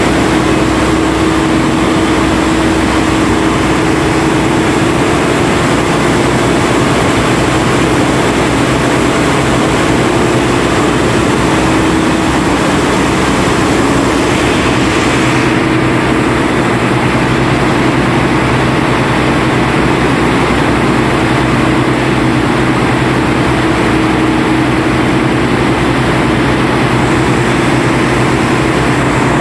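Heavy engine on an ore-suction dredge boat running steadily under load, with a constant low hum and a layer of rushing noise over it.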